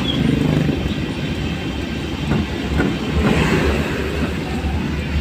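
Road traffic noise: a steady low rumble of vehicle engines.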